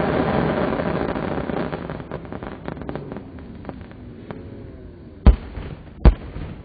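Fireworks in a slowed-down recording: a dense noisy rush that fades over the first two seconds, scattered crackles and pops, then two sharp, very loud bangs about five and six seconds in.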